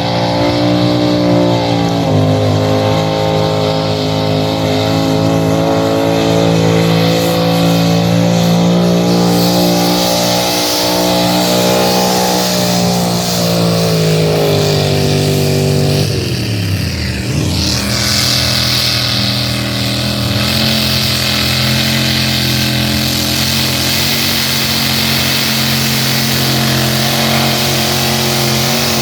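A pulling truck's or tractor's engine running hard at high revs, its pitch sagging slightly. About sixteen seconds in the revs drop sharply, and it settles into a lower, steady run.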